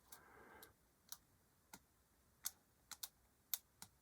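Small, sharp clicks from a hobby knife being handled at the bench while its blade is changed, about seven at uneven intervals.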